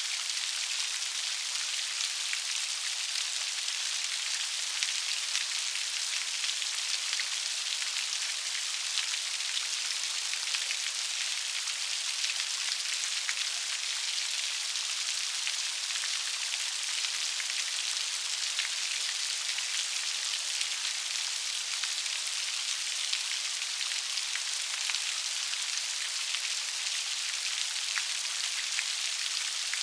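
Steady rain falling, a constant high hiss of many fine raindrops with small individual drop ticks, no thunder.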